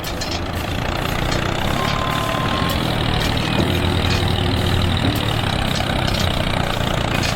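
An engine running steadily with a low drone, with a brief high tone about two seconds in.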